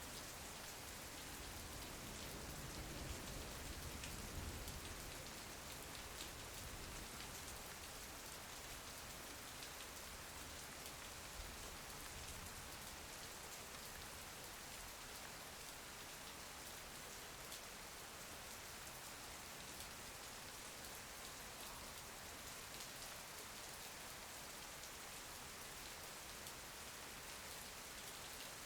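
Steady rain falling, an even hiss with many small scattered drop taps, and a faint low rumble in the first few seconds.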